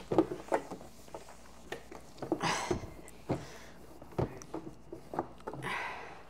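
Handling noise: a series of light knocks and clatters, with two brief rubbing swishes, about two and a half and five and a half seconds in.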